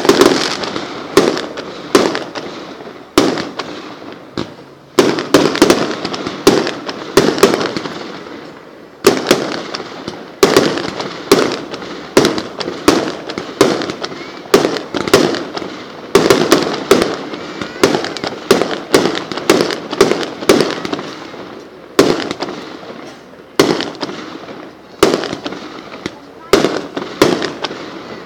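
Fireworks display: a long run of sharp bangs and crackling from bursting aerial fireworks, often several a second, with short lulls between volleys.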